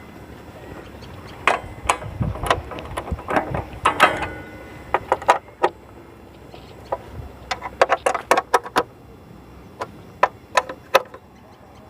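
Hand tools clicking and knocking on a motorcycle's chain cover and its bolts as the cover is fitted and tightened: irregular sharp clicks in two bursts, with a short lull between them.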